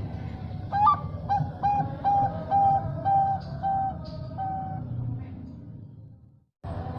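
Zebra dove (perkutut) cooing: a rising, shrill opening note followed by a run of about eight short, even coos that stop near the end.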